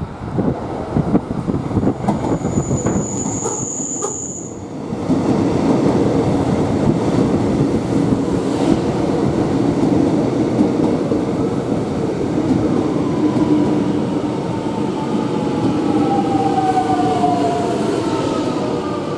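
X'Trapolis electric train running through the station with a steady rumble, with a brief high-pitched squeal about three seconds in. From about two-thirds of the way through, a whine from the train's motors falls steadily in pitch.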